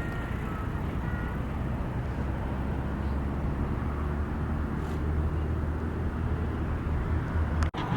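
Steady low outdoor rumble, stronger through the second half, that cuts out briefly just before the end.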